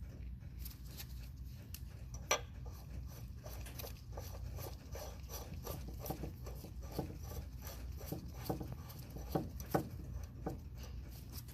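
Metal end cap of a forklift lift cylinder being turned back onto the cylinder: irregular clicks, ticks and scraping of metal on metal, with a few louder knocks about two seconds in and near nine to ten seconds in, over a steady low hum.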